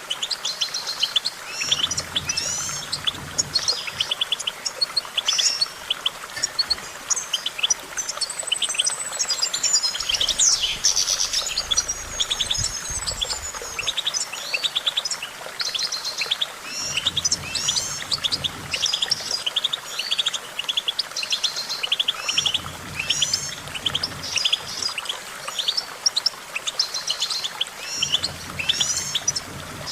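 European goldfinch singing without pause: a fast, twittering run of quick high notes and trills, broken by a few longer sliding whistles.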